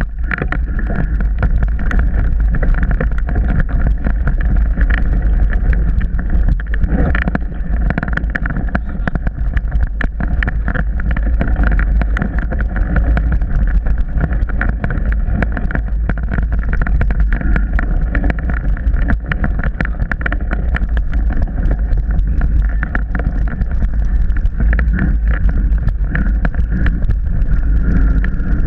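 Onboard sound of a mountain bike ridden over a wet trail: a constant rumble of wind and tyres on the camera microphone, with rapid clicks and rattles from the bike over rough ground.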